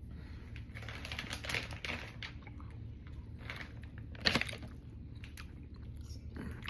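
Soft rustling and small clicks of snack candy and its packaging being handled and eaten, with one louder click about four seconds in.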